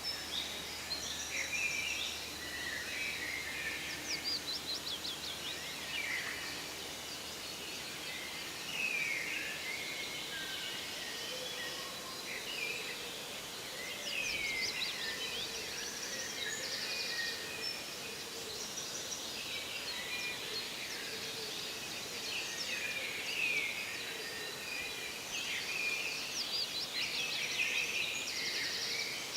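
Forest ambience: several birds singing and calling in short chirps and trills, overlapping throughout, over a steady background hiss.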